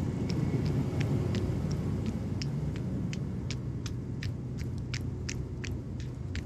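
Running footsteps on pavement, evenly paced at about three steps a second, over a steady low rumble of gusty wind on the microphone.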